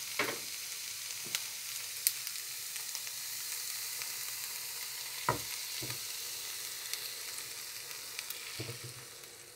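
Julienned potatoes sizzling steadily in hot oil in a frying pan as beaten egg is poured over them, with a few light knocks; the sizzle fades near the end.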